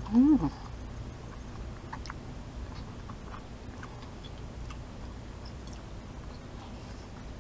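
A brief hummed 'mm' that rises and falls in pitch just at the start, then quiet chewing of thick udon noodles with a few faint soft clicks.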